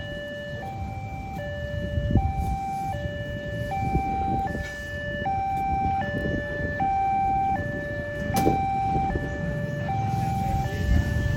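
Railway level-crossing warning alarm sounding a steady two-tone signal, switching between a lower and a higher pitch about every three-quarters of a second, which warns that a train is approaching, over a low rumble of road traffic.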